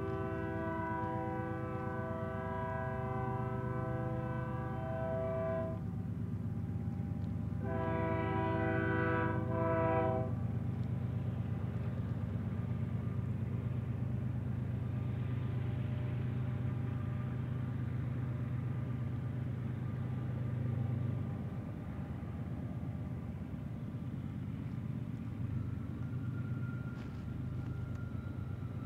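Union Pacific diesel-electric freight locomotives approaching, with two blasts of the horn: the first about six seconds long, the second shorter, about eight seconds in. Under the horn the engines run with a steady low drone that eases a little after about twenty seconds.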